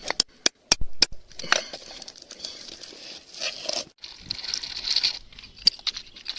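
Hands digging and scraping through gritty soil for buried pieces of glass: a few sharp clicks of hard pieces knocking together in the first second and again near the end, with stretches of rough scraping between.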